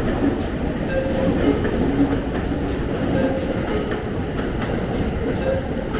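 Electric train running along the track: a steady rumble with faint clicking from the rails and a faint humming tone.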